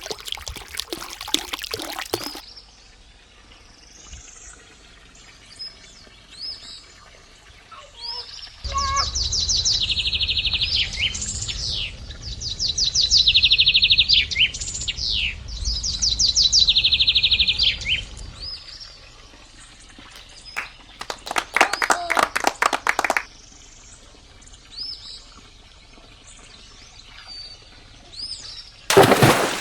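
Birds chirping, with a loud, fast trilling song repeated three times through the middle over a low rumble. Short bursts of crackling noise come near the start, about two-thirds of the way in, and again near the end.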